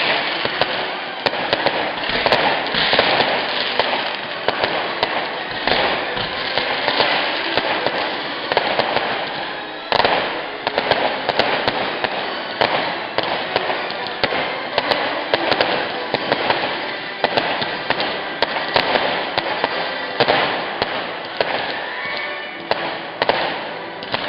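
Fireworks crackling continuously: a dense stream of sharp pops and cracks, with one louder bang about ten seconds in.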